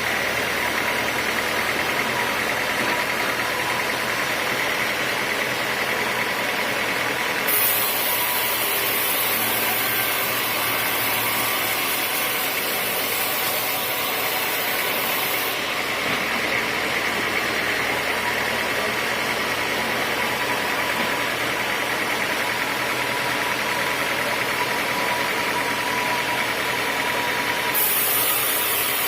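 Sawmill machinery running steadily with a continuous mechanical noise. A high hiss cuts in about a quarter of the way through, stops about halfway, and returns near the end.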